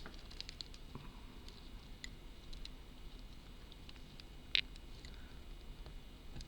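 Faint scattered clicks and taps of small hand tools handling tiny miniature-model parts, with one sharper click about four and a half seconds in.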